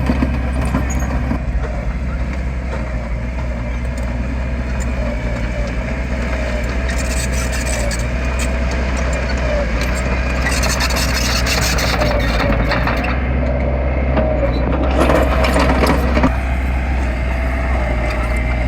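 Diesel engine of heavy earthmoving machinery running steadily, with a low drone and a wavering whine. Stretches of gritty grinding noise come in around the middle and again about fifteen seconds in.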